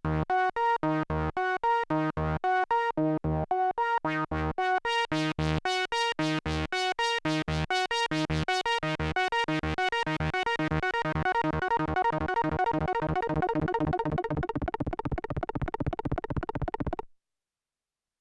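Korg Minilogue analog synthesizer playing a fast staccato arpeggio of short repeating notes. The notes get brighter partway through, then speed up until they blur together, and the sound cuts off abruptly about a second before the end.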